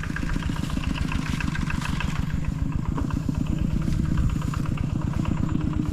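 An engine running steadily with fast, even firing pulses.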